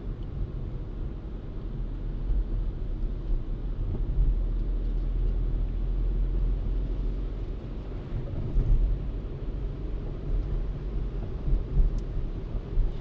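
A car driving, heard as a steady low rumble of road and engine noise with a few faint ticks.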